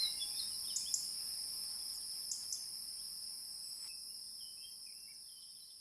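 Nature ambience of insects trilling steadily at a high pitch, with scattered short bird chirps in the first half, fading out gradually toward the end.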